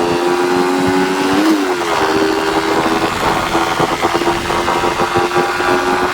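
Yamaha Vixion motorcycle's single-cylinder four-stroke engine, bored up to 177 cc and breathing through the standard exhaust, running at a steady speed. About one and a half seconds in there is one quick blip of the throttle that rises and falls.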